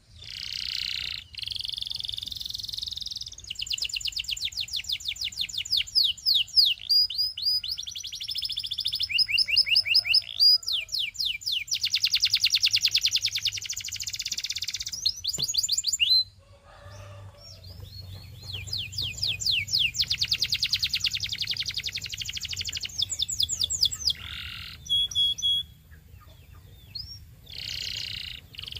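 Canary singing a long song of rapid trills and quick repeated chirped notes, high-pitched and loud, broken by a couple of short pauses.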